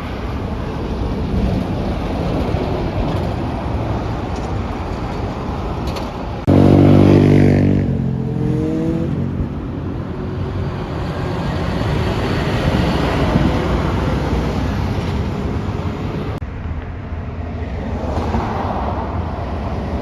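Heavy truck traffic rumbling steadily on the road. About six and a half seconds in, a loud pitched blast cuts in suddenly, lasts about a second, and slides down in pitch as it fades.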